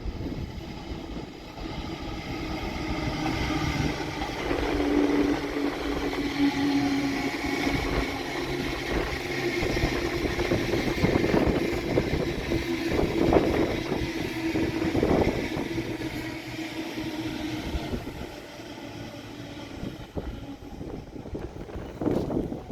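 A train going by: running noise and clatter that build up about four seconds in, stay loud with a steady hum, and fade near the end.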